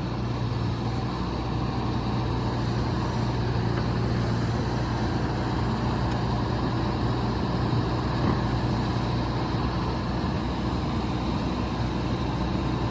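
John Deere 310SK backhoe's diesel engine running steadily at a constant speed.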